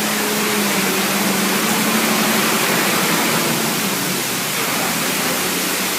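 Heavy rain pouring down in a loud, steady hiss, with a faint low hum under it for the first few seconds.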